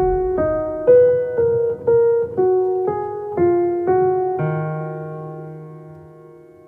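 Background music: a piano or keyboard melody of single notes, about two a second, over a soft accompaniment. About four and a half seconds in it lands on a held chord that slowly fades out.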